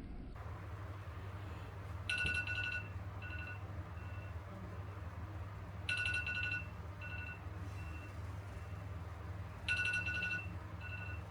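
Electronic alarm beeping: a quick run of high beeps followed by two single beeps, the pattern repeating three times about every four seconds over a steady low hum.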